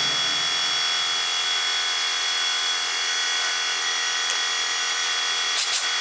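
Electric power tool running steadily with a constant high whine, with a few sharp clicks near the end.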